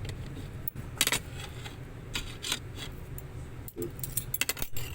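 Light clinks and clatter of dishes and food containers being handled as a meal is set out, in a few short scattered bursts over a steady low hum.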